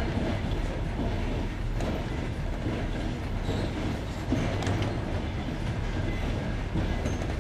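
Passenger train carriage running over jointed rails: a steady low rumble with the knock of wheels over the rail joints, the sharpest knock about four seconds in.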